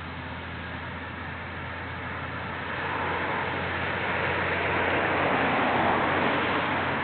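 Nagara 500 series diesel railcar drawing near: a steady low diesel drone, with running noise growing louder from about three seconds in.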